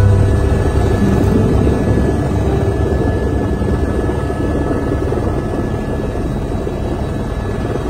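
Helicopter running steadily, a loud, even rotor-and-engine din that eases off slightly toward the end.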